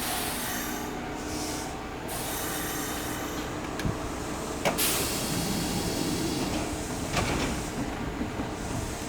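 Electric commuter train running through a station with a steady rumble, broken by a few sharp clacks around the middle.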